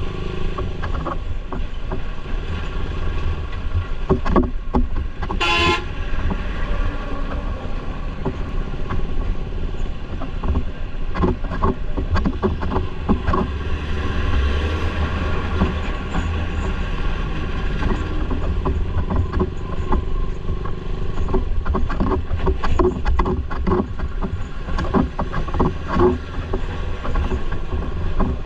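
Motorbike riding along a road: a steady low rumble of engine and road noise with scattered clatter. A vehicle horn honks once, briefly, about five and a half seconds in.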